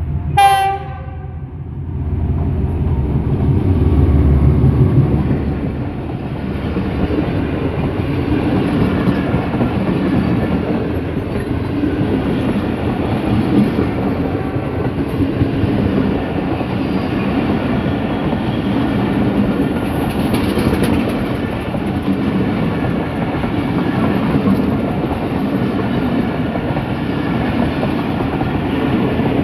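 A short horn blast from a Pakistan Railways diesel locomotive, then a heavy low rumble as the locomotive passes close by, the loudest part. After it comes the steady rumble and clickety-clack of the passenger coaches' wheels running over the rail joints.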